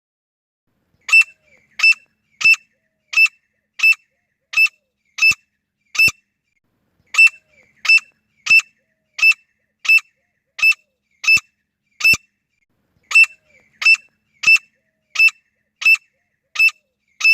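Female grey francolin calling: short, sharp, high calls repeated about every 0.7 s, in three runs of seven or eight calls with brief pauses between the runs.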